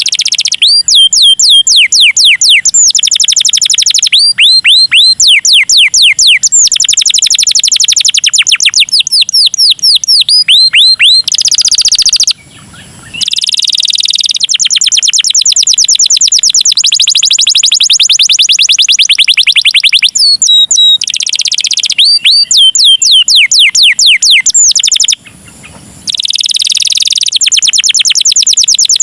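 Domestic canary singing a long, elaborate song of fast rolling trills and rapidly repeated high notes, broken by two short pauses, one a little before halfway and one near the end.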